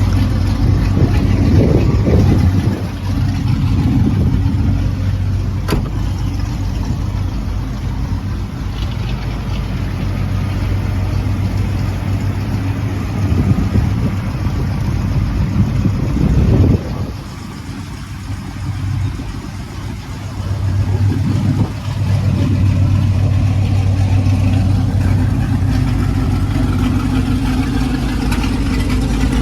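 Car engine and exhaust running steadily under way. The engine note eases off about 17 seconds in and builds back up about five seconds later.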